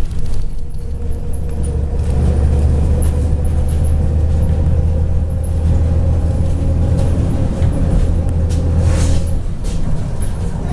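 Steady low drone of a MAZ 103 city bus's diesel engine, heard from inside the passenger cabin while the bus is under way. About nine seconds in there is a short hiss, and the drone drops away just after it.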